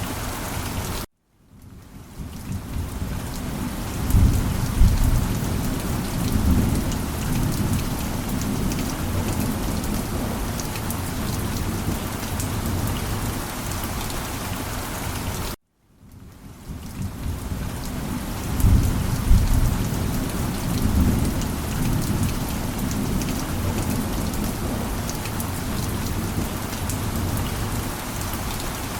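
Steady heavy rain with low, rolling thunder rumbles, one about three seconds after each of two brief cut-outs to silence. The cut-outs come about fourteen seconds apart, where the looped rain-and-thunder recording restarts and fades back in.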